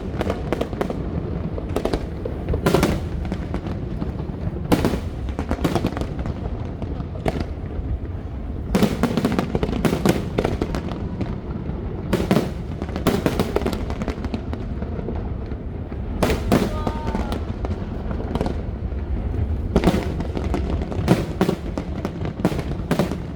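Fireworks display going off: sharp bangs at irregular intervals, sometimes several in quick succession, over a steady low rumble and crowd noise.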